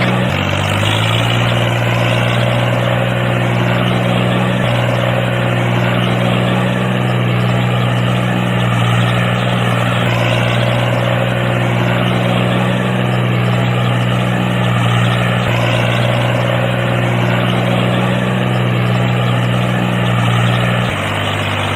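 Engine running with a steady low drone, like a tractor idling. It settles to a new pitch about half a second in and changes again about a second before the end.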